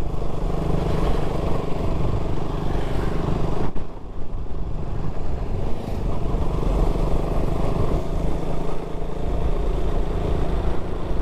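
Motorcycle engine running steadily under way, heard from the moving bike, with a brief drop in level about four seconds in.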